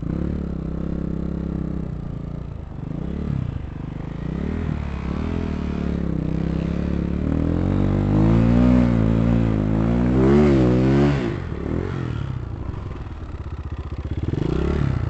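250 cc dirt bike engine revving and changing speed as it rides, its pitch rising and falling repeatedly. It is loudest and most wavering from about halfway through, then drops back sharply before picking up again near the end.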